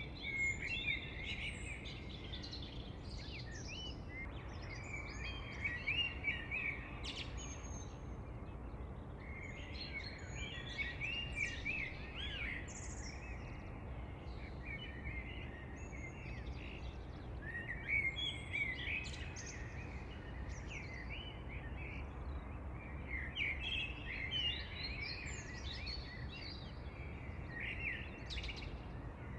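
Several songbirds chirping and singing in overlapping bursts of quick, high calls, over a steady low background rumble.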